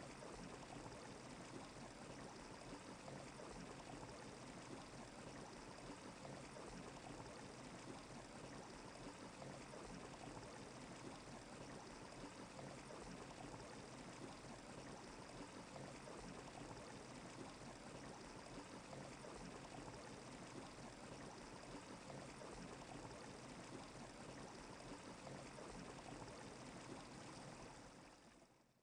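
Faint, steady rushing noise that fades out about a second before the end.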